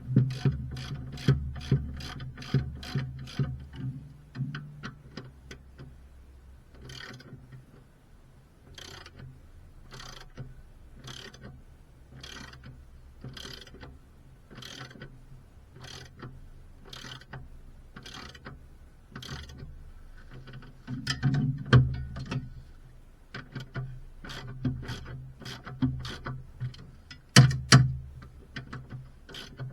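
Repeated sharp mechanical clicking, about two to three clicks a second, over background music with low bass notes.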